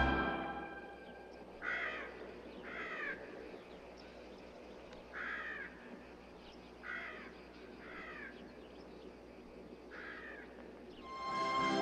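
A bird cawing six times, short single caws spaced one to a few seconds apart, over a faint steady background.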